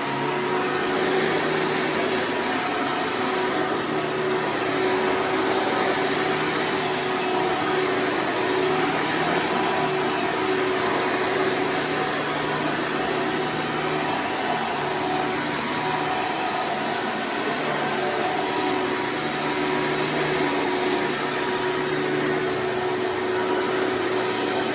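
Hoover Preferred upright vacuum cleaner running steadily while vacuuming, a constant motor hum with a steady whine.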